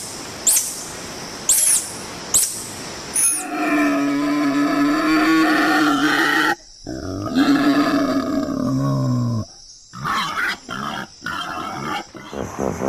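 A series of short, high chirps, each sweeping down in pitch. Then comes one long, steady-pitched animal call, and after a brief break a second call that slides down low, followed by a few short clicks.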